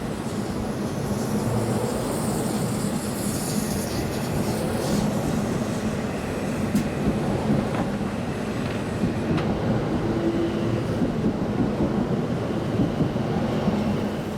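Shinkansen bullet train moving along the platform track, a steady rumble with a low hum. A high hiss comes in a few seconds in, and in the second half the wheels give a run of sharp clacks over the rail joints.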